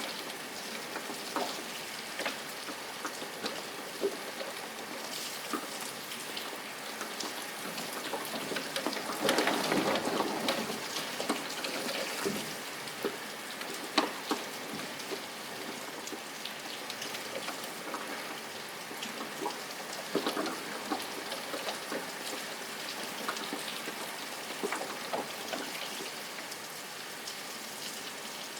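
Steady rain, with many separate drops ticking close by on a surface. The rain swells louder for a couple of seconds about a third of the way through, and there is one sharp drop or click about halfway.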